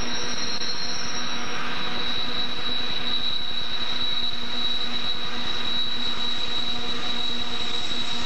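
Union Pacific diesel freight locomotives passing close by, engines running with a steady hum under the rumble of the train, and a continuous high-pitched wheel squeal held steady throughout.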